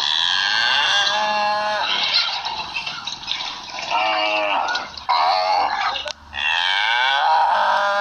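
Recorded cattle mooing, several long calls one after another with short breaks between them, played back through a speaker.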